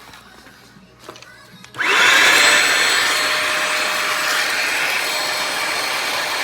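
Bissell Symphony Pet steam mop-vacuum's vacuum motor switched on a little under two seconds in, whining quickly up to speed and then running steadily and loud, working normally.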